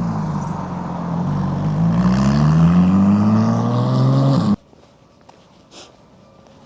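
A car's engine passing close by, its pitch dipping and then climbing as it speeds up. The sound cuts off suddenly about four and a half seconds in, leaving only faint background noise.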